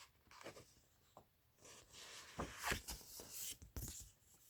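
Faint rustling of a picture book's paper pages being handled and turned, a short run of soft scrapes from about two seconds in.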